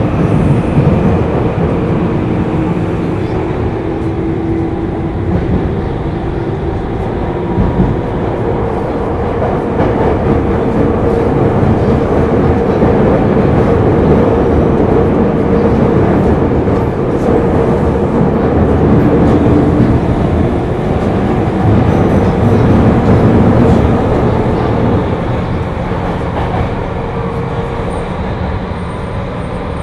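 Tokyu 2000 series electric train running, heard from inside the car: a loud, steady rumble of wheels and running gear, with the faint whine of its VVVF inverter traction motors.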